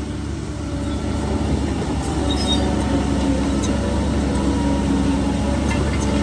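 Heavy diesel construction machine running with a steady low rumble that grows a little louder about a second in, with a few short metallic squeaks and clinks over it.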